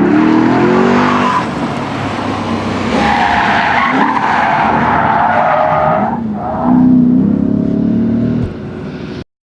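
Lexus IS-F's 5.0 V8 revving hard as the tyres squeal in a drift, the squeal holding for about three seconds in the middle. The engine revs again near the end, then the sound cuts off suddenly.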